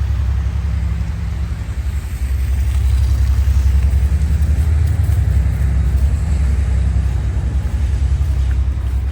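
Deep, loud engine rumble of a nearby large motor vehicle, its low hum stepping in pitch a few times.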